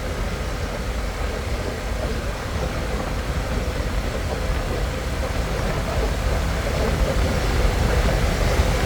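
Harley-Davidson Pan America's Revolution Max 1250 V-twin running steadily at road speed, with heavy wind noise on the microphone. The sound grows slightly louder near the end.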